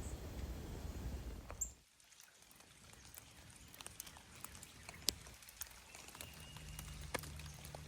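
Outdoor nature ambience: a low, steady rush for about two seconds, which cuts off abruptly, then a quieter background with scattered sharp ticks.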